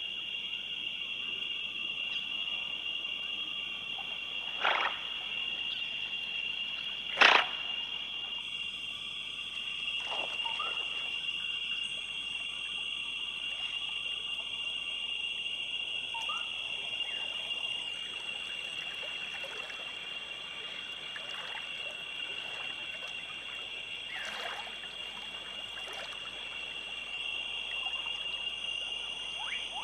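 Tropical rainforest ambience: a steady high-pitched chorus of frogs and insects, with scattered short animal calls. Two sharp, sudden sounds break through about five and seven seconds in, the second the loudest.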